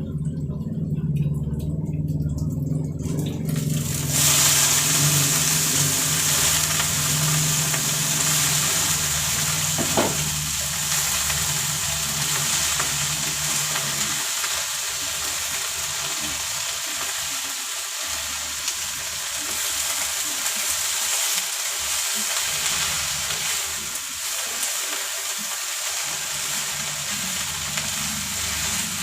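Water spinach frying and sizzling in hot oil as it is stir-fried, the sizzle starting suddenly about four seconds in. A low hum runs underneath for about the first half, and there is one sharp knock of a utensil on the pan near the middle.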